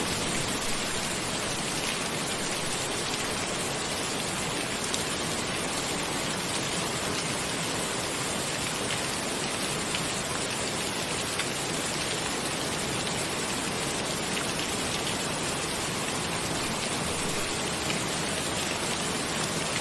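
Steady rain falling in an even hiss, with a few single drops ticking out of it here and there.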